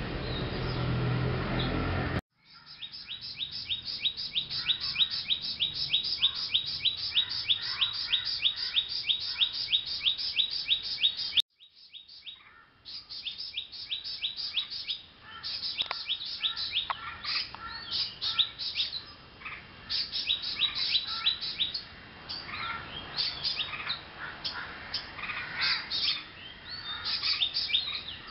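Birds chirping: after a brief stretch of steady noise and a sudden cut, a fast, even run of repeated high chirps, about four a second, then more irregular, varied chirping.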